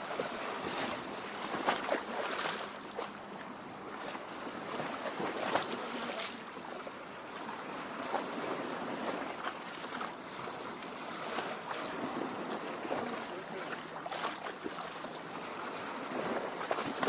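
Lake water lapping and splashing against a rocky shore: a steady wash of water with frequent small splashes.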